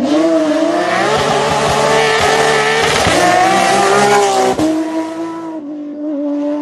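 Car engine sound effect revving: its pitch rises at the start and wavers over a hiss, then settles into a steadier, lower note about four and a half seconds in.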